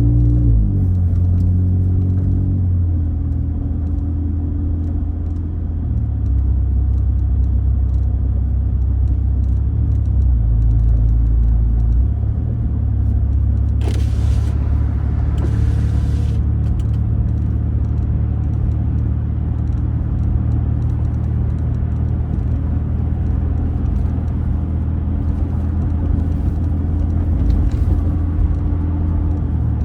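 Ford Raptor pickup with a Roush aftermarket exhaust being driven, giving a steady deep exhaust rumble. The pitch shifts in steps several times in the first dozen seconds, and a brief rushing noise passes about halfway through.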